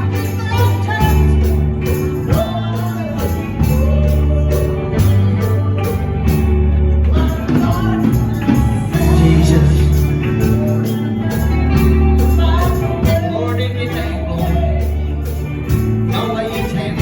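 Live gospel music: deep bass notes, a tambourine keeping a steady beat, and voices singing.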